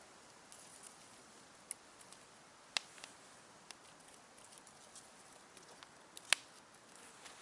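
Burning firewood in a campfire crackling: a few sharp, scattered pops over a faint steady hiss, the loudest about three and six seconds in.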